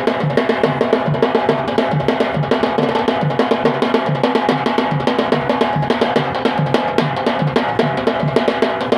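Drums beating a fast, steady rhythm for a Yemeni bara'a dance, strokes falling several times a second without a break.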